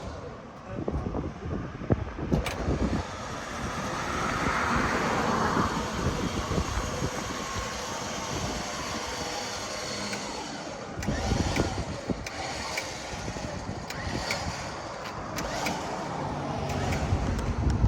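A motor vehicle running, with scattered clicks and knocks and a hissing patch about four seconds in; the low rumble grows stronger about eleven seconds in.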